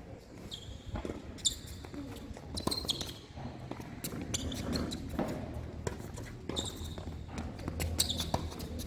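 Tennis balls being hit and bouncing on court: sharp pops at irregular intervals, about one every second or so, several with a short high squeak of shoes.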